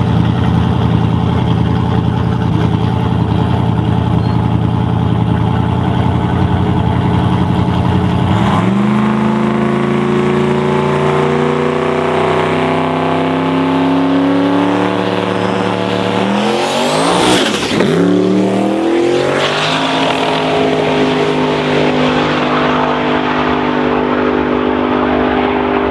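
A drag-racing engine running steadily. About eight seconds in its pitch steps up and holds. Around two-thirds of the way through comes a loud stretch of sweeping rises and falls in pitch, and then it settles back to a steady note.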